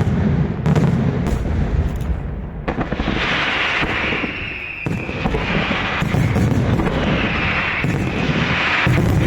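Fireworks display: a rapid, unbroken barrage of aerial shell bursts whose booms run together into a heavy rumble. Twice, in the middle and again near the end, a bright crackling hiss rises over the booms.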